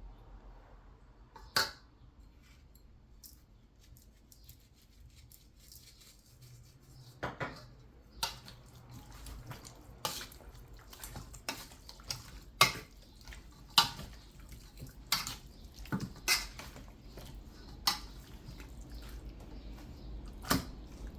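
Kitchenware clinking and knocking: about a dozen sharp, separate clinks of a bowl and utensils at uneven intervals, while raw chicken is worked with its seasoning.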